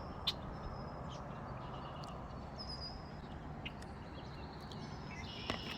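Small wild birds giving short, high, thin calls over a steady outdoor background hiss, with a sharp click about a third of a second in and a livelier cluster of calls near the end.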